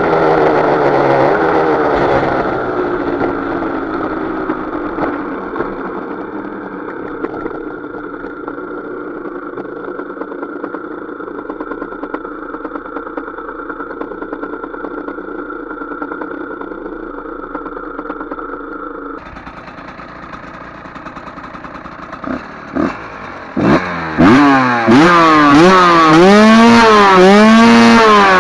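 Husqvarna SM 125's single-cylinder two-stroke engine winding down, then running at a steady low note for a long stretch. About 22 seconds in, the throttle is blipped a few times, and then it is revved hard, the pitch climbing and dropping about once a second as it shifts up through the gears.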